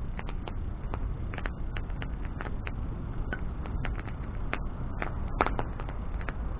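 Wood bonfire crackling: irregular sharp pops and snaps, several a second, over a steady low rumble of the burning fire.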